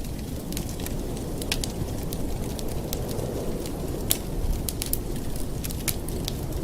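Wood fire in a fireplace burning with irregular sharp crackles and pops over a steady low rumble.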